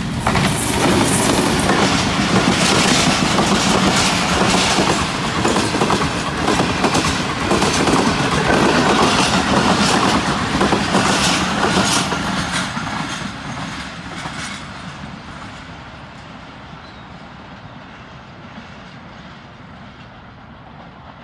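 Diesel locomotive and a long rake of passenger coaches passing at speed: engine and running noise with a rapid clickety-clack of wheels over rail joints, loud for about the first twelve seconds, then fading away as the train recedes.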